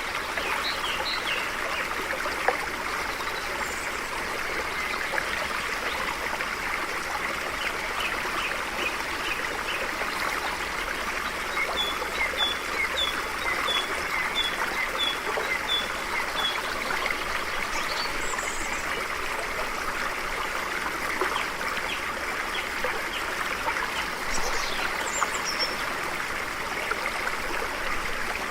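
A stream flowing steadily, with birds chirping over it. A little before the middle a bird gives a run of about ten short, evenly spaced notes, and a few higher chirps come later.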